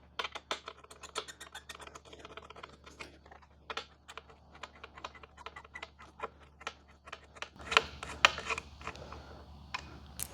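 A 6 mm hex tool working the motorcycle seat's mounting bolts loose: quick irregular runs of small metallic clicks, with a few louder knocks about eight seconds in.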